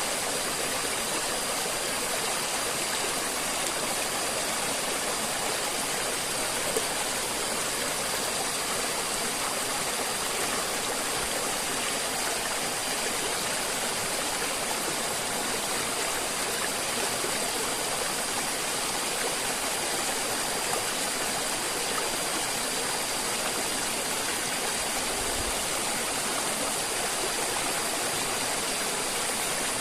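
River water flowing steadily, an even, continuous rush of water.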